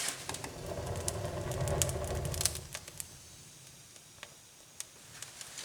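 Newly lit wood fire of sticks and bark in a fireplace crackling with scattered sharp pops, over a rustling noise that fades out about two and a half seconds in.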